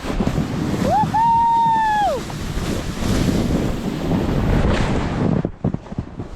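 Sled sliding fast down a snowy slope: the sled scrapes over the snow and wind rushes on the microphone, with one long high yell from the rider about a second in. The rush stops suddenly after about five and a half seconds, as the run ends.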